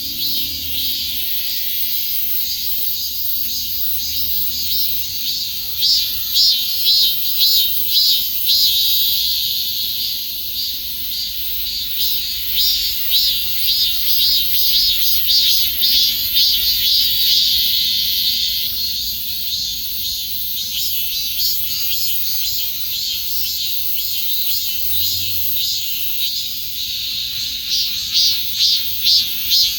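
Cicadas singing: a loud, high, shrill buzz that swells into regular pulses about twice a second in places and runs as a steadier drone in between.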